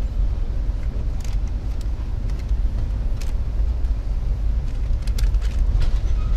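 Steady low rumble of a moving passenger train heard inside the coach, with a few faint clicks and rattles scattered through it.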